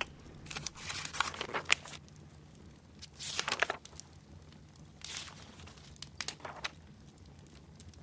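Paper rustling in four short bursts, with small clicks between them: book pages being handled and turned.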